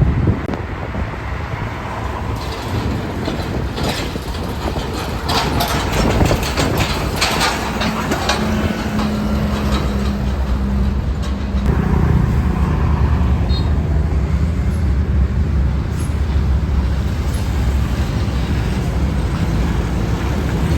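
Road traffic passing, with a heavy vehicle's engine running close by. Its low engine note grows louder about twelve seconds in.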